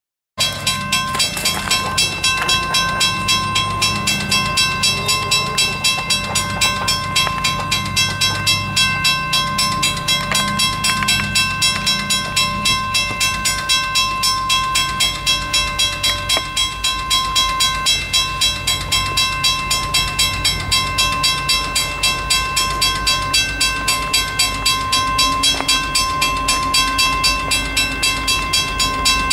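Freight train approaching behind an SD90/43MAC diesel locomotive, its engine rumbling low, while a bell rings steadily at about two strikes a second.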